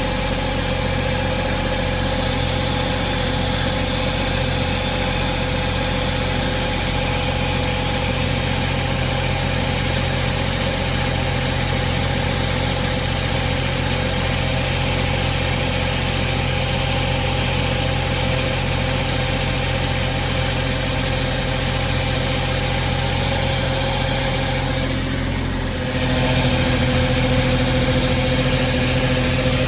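1996 Jeep Cherokee XJ engine idling steadily, with the noise that follows starting and is felt in the bellhousing; the owner, who has already replaced the transmission, torque converter and flex plate, wonders whether it is the starter, fuel pump or ignition switch. Near the end it dips briefly, then runs on a little louder with a changed tone.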